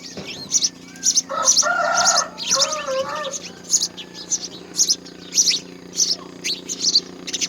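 Birds chirping: short high chirps repeated about twice a second, with a louder, lower call with a bending pitch between about one and three seconds in. A steady low hum runs underneath.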